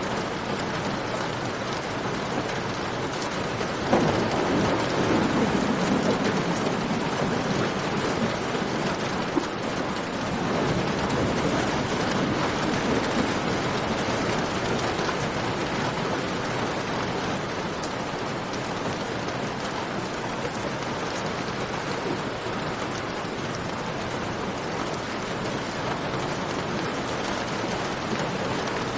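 Steady rain falling, with a rumble of thunder that starts suddenly about four seconds in and fades over the next several seconds. A few sharp campfire crackles are also heard.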